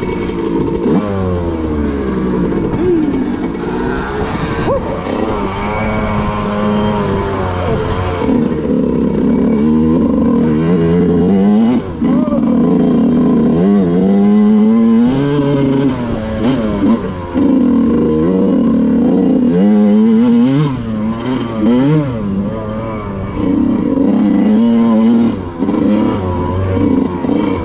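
Dirt bike engines revving up and down over and over, the pitch climbing and dropping as the throttle is worked.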